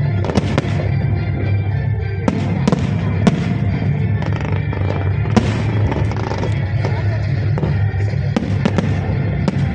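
Fireworks going off in a rapid, irregular string of sharp bangs, over loud show music with a steady heavy bass.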